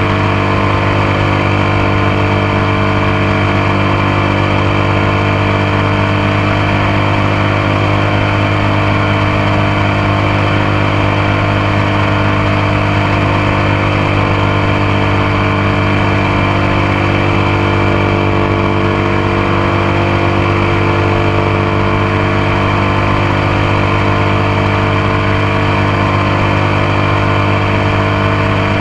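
Motorcycle engine running steadily, its note holding nearly constant with no revving or gear changes, heard close up from the passenger foot peg.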